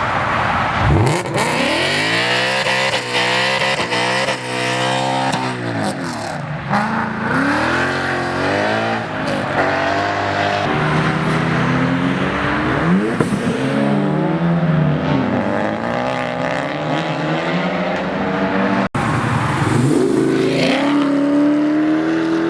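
Car engines revving hard, their pitch repeatedly climbing and dropping. Around the middle two engines are heard at once, one rising while the other falls.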